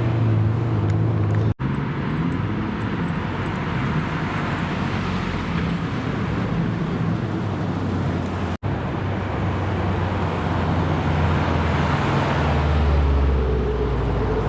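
Car engines running with a low rumble and two abrupt breaks in the sound; near the end a deeper engine note swells louder.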